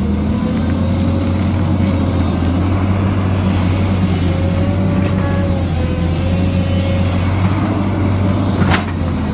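Heavy diesel engine of an excavator running steadily with a low hum and a slightly wavering pitch, with one brief sharp sound near the end.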